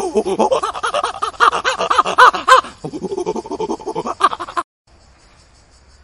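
Great ape calling: a rapid series of panting hoots that climb in pitch to a few louder, higher cries about two seconds in, then break off about four and a half seconds in.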